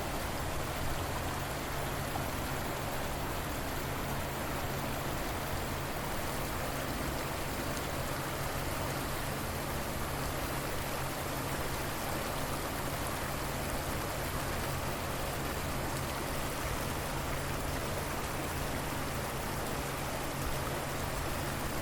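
River water flowing, a steady, even rush with no change.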